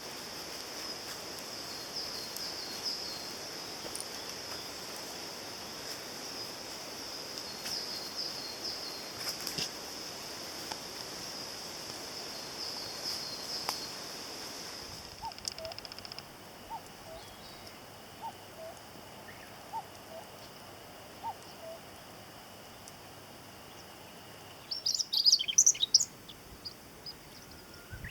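Wild birds singing: repeated high song phrases over a steady high hiss, then a run of short low calls about once a second, and a loud, quick, high song phrase near the end.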